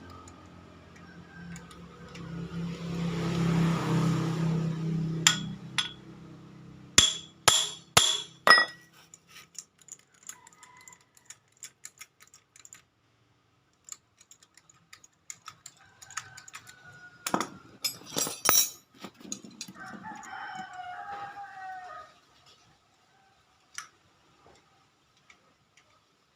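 A low drone swells and fades over the first few seconds, followed by two clusters of sharp clanks or knocks. A rooster crows about twenty seconds in.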